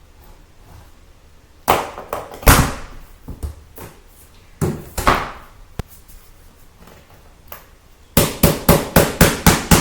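Knocking as a click-lock floor tile is tapped down into place. A few separate strikes come first, then a fast run of about five a second near the end.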